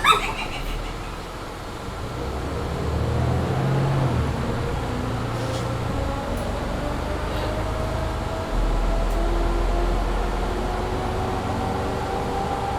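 Mercedes-Benz Citaro C2 G articulated bus with a Voith automatic gearbox accelerating hard under kickdown. A whine rises slowly in pitch throughout. About two-thirds of the way through, a deeper drone sets in and the sound gets louder.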